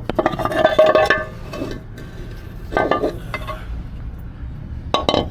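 Metal clinks and knocks as an engine rocker cover is lifted off and handled, dense with ringing over the first second, then single knocks about three seconds in and again near the end.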